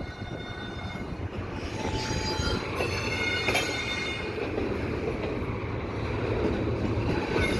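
Intermodal double-stack railcars rolling slowly through a curve in the yard, their wheels squealing in thin, high, steady tones over a low rumble.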